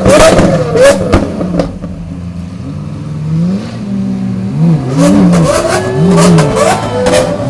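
Supercar engines free-revved while stationary, with dense exhaust crackling and popping for the first second or so. After a short lull come several quick rev blips, then a slower climbing rev near the end.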